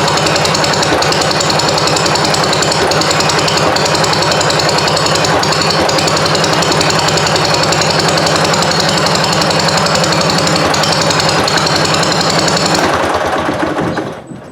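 Wisconsin THD air-cooled two-cylinder engine running steadily with a fast, even firing beat, freshly rewired and with new points, and running pretty good. Near the end it is shut off and dies away.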